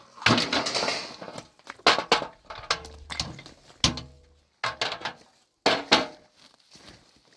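Irregular sharp knocks and clatters of objects being handled, a few of them with a brief ringing tone, separated by short quiet gaps.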